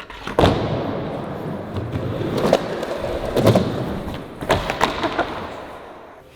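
Skateboard rolling on hard ground with a steady wheel rumble, broken by several sharp clacks and thuds of the board: a pop about half a second in, then knocks around the middle, with the rolling fading away near the end.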